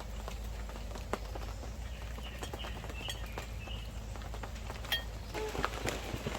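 Rain falling steadily, a dense patter of many small drops striking surfaces. A few faint high chirps are heard around the middle.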